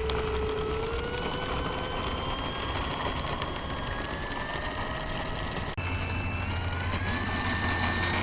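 Electric ducted-fan jet whining over a rush of wind and air noise, its pitch climbing slowly as the fans spool up. The sound breaks off sharply about six seconds in. After that a low hum joins, and the whine climbs again.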